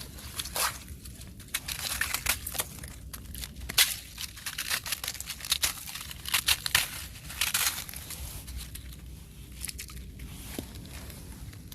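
Thin fresh ice crackling and crunching as it is stepped on and broken, a dense run of irregular sharp cracks with brief pauses between them.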